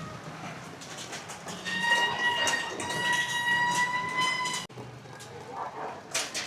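Train horn sounding one long, steady blast of about three seconds, which cuts off suddenly.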